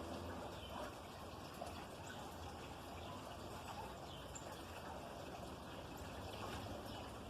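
A few faint, short bird chirps scattered over a steady background hiss.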